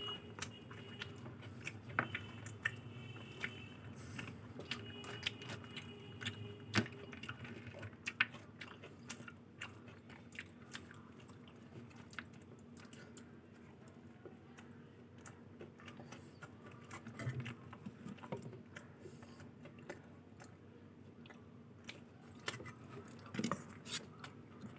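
Close-up chewing and wet mouth sounds of someone eating luchi with ghughni and aloor dum: steady chewing with many small lip-smacks and clicks, busiest in the first few seconds, then quieter with a couple of louder bites near the end.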